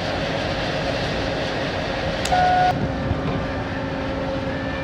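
Steady rumble of running machinery aboard a ferry, with one short beep about halfway through.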